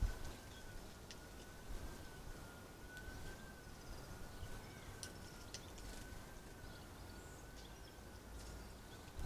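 Faint outdoor ambience with a steady high whine that wavers slightly in pitch, and a few short, faint bird chirps.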